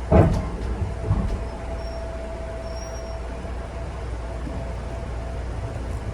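Electric local train running, heard from inside the car: a steady low rumble, with two sharp clunks about a second apart near the start and a steady whine for a couple of seconds after.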